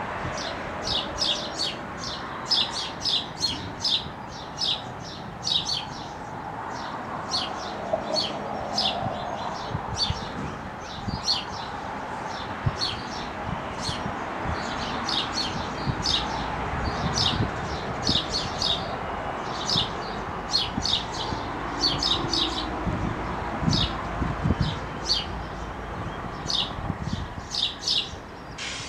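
Small birds chirping busily, many short high chirps a second, over a steady low rumble.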